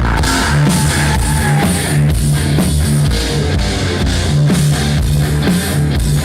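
Live rock band playing an instrumental passage between vocal lines: electric guitar, bass and drum kit, loud and steady with a regular beat.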